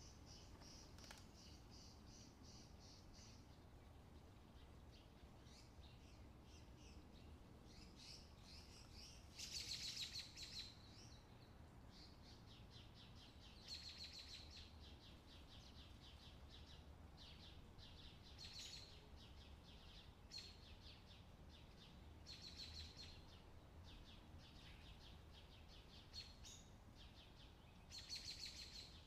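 Faint small birds chirping in short, rapid trilled bursts every few seconds, over a low steady hum.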